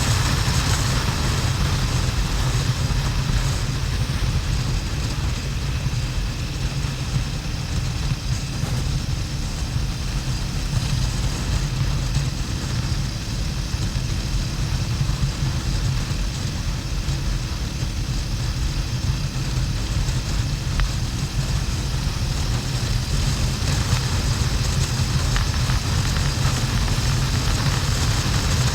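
Harley-Davidson XL1200N Sportster's air-cooled 1200 cc V-twin running steadily at cruising speed, mixed with heavy wind rush on the camera's microphone.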